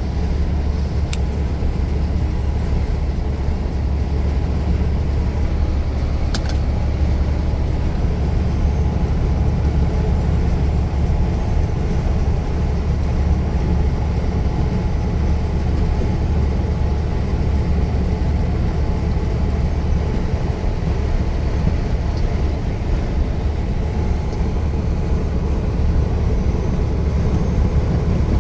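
Truck on the move: a steady, deep engine and road drone with no change in speed, and a few faint clicks near the start and about six seconds in.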